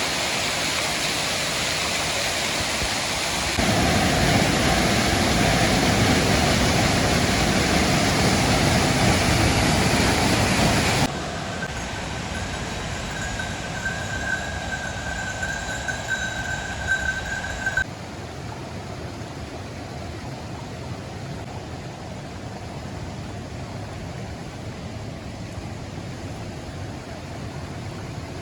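Steady rush of falling water from a mountain waterfall, in several cuts of different loudness: fullest and deepest from about four to eleven seconds in, then quieter with a steady high thin tone over it until about eighteen seconds, then a soft even rush.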